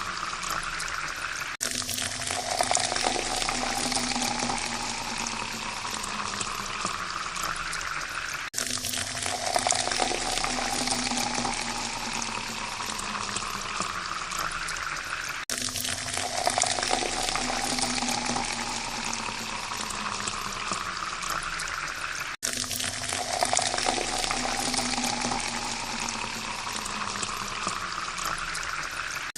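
Water pouring into a glass, the tone rising as the glass fills. The same pour repeats about every seven seconds, each one cut off suddenly and starting over.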